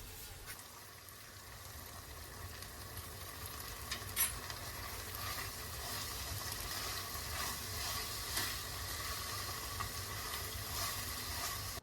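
Food sizzling in a hot pan while it is stirred, with a sharp clink about four seconds in. The sizzling grows a little louder, then cuts off suddenly.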